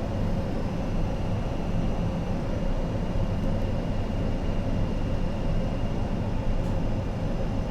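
Steady cockpit noise of an Avro RJ100 on approach with the landing gear down: a constant low rumble of airflow and its four turbofan engines, with a faint steady high whine.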